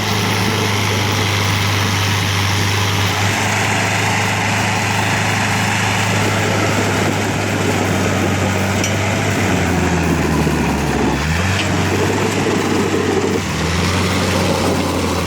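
Diesel engine of a heavy working machine running steadily at high revs. Its note sags for a couple of seconds about two-thirds of the way through, then picks up again.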